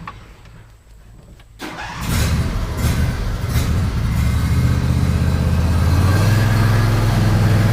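Tractor engine starting about a second and a half in, running unevenly at first, then settling into a steady idle.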